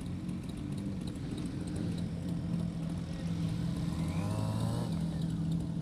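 Motorcycle engine idling steadily, with a brief rising whine about four seconds in.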